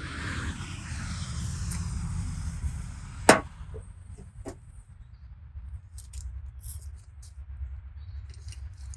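One sharp metallic clank about a third of the way in, followed by a few lighter knocks and scattered high clicks, over a steady low rumble.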